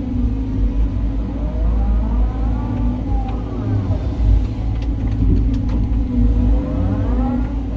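Caterpillar 323 hydraulic excavator running under load, a steady low diesel rumble with hydraulic whines that rise and fall as the machine works. A few short clicks a little past the middle.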